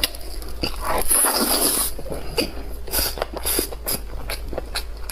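Close-up eating sounds: wet chewing and repeated mouth smacks, with a longer slurping or sucking noise about a second in.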